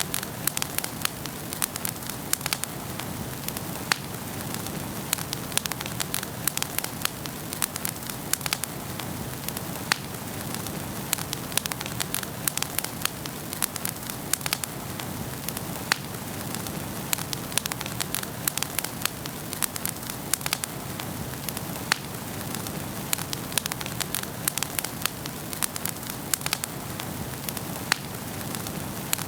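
Wood fire burning in a fireplace, crackling with many sharp, irregular pops over a steady low hiss.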